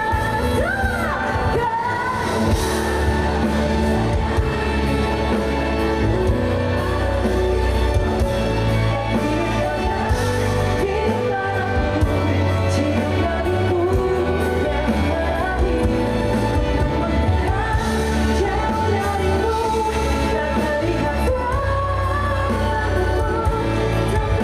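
Live pop song played by a band through a concert sound system, with a voice singing a ballad line over a steady bass.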